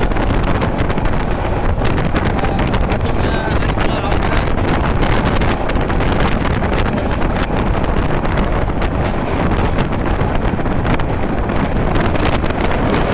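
Wind buffeting the microphone at the open door of a moving passenger train, over the steady running noise of the train on the rails, with frequent sharp clicks.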